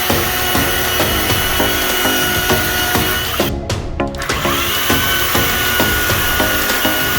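Makita battery-powered chainsaw cutting wood, its motor whining steadily; a little after three seconds in the trigger is released and the motor spins back up to speed about a second later.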